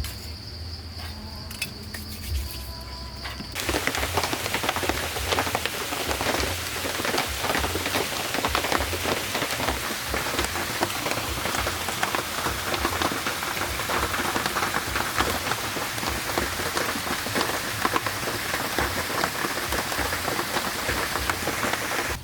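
Heavy rain falling, a dense loud spray of fine drops that starts abruptly a few seconds in and continues steadily. Before it, a steady high tone with a few soft knocks.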